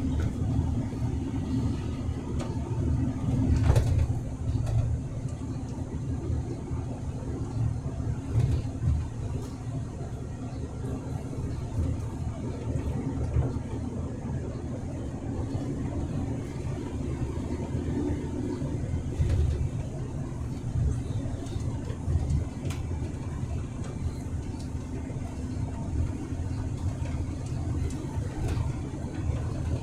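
A truck's engine and road noise while driving, as heard from inside the cab: a steady low rumble with a constant hum, and a single knock about four seconds in.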